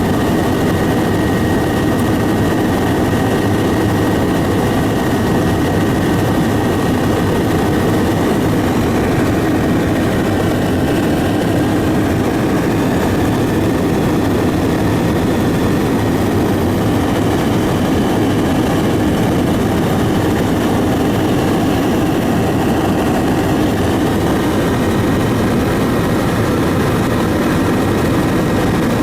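Aircraft engine drone heard from on board in flight, steady and loud throughout, with a faint high steady tone over it.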